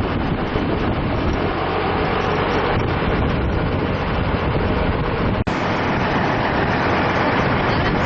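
Steady outdoor rumbling noise, broken for a moment about five and a half seconds in.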